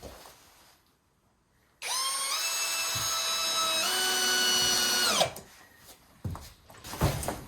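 Power drill-driver driving a self-tapping screw: its motor whine runs for about three and a half seconds, stepping down in pitch as the screw bites, then winds down. Light knocks follow.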